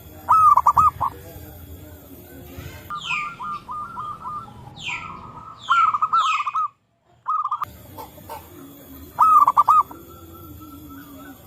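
Zebra doves calling back and forth with rapid, staccato cooing trills, three loud bursts in all. Between them a higher bird gives several falling whistled notes. The sound cuts out briefly to silence just after the middle.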